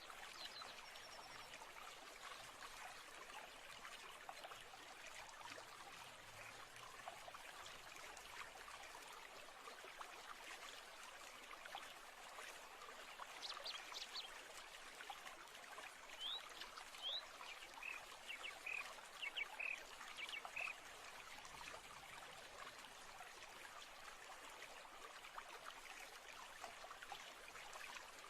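Faint, steady running water like a small stream trickling, with a scatter of short high bird chirps through the middle.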